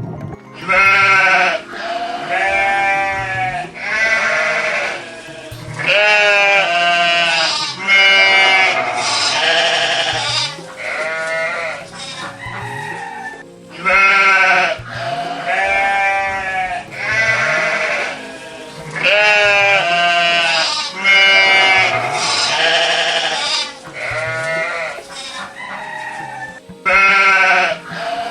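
Sheep bleating over and over, several loud quavering bleats a few seconds apart. The same run of bleats repeats about halfway through.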